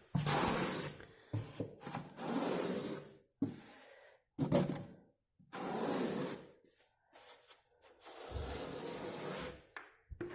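A spatula scraping over fiberglass wall canvas on a wall, in a series of rasping strokes about a second long with short pauses between them.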